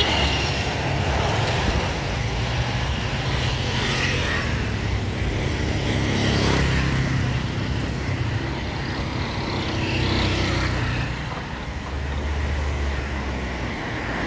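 Road traffic on a busy city street: motor vehicles passing with a continuous low rumble that swells and fades as they go by.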